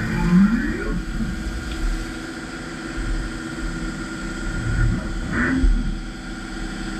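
CNC vertical milling machine running, with steady machine tones throughout. In the first second a whine rises in pitch, and a brief louder burst comes about five and a half seconds in.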